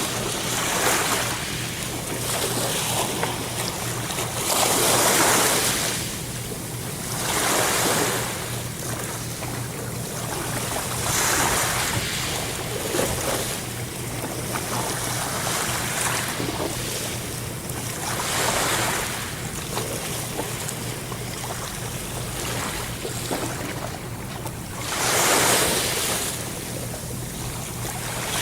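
Sea waves breaking and washing in, with swells of surf every few seconds. The biggest surges come about five seconds in and again near the end.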